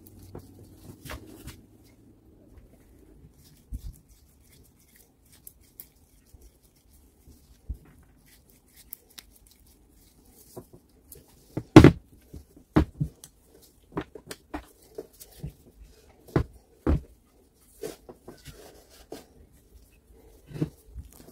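Irregular clicks and knocks of small parts and tools being handled, the loudest about twelve seconds in, with a run of sharper knocks after it.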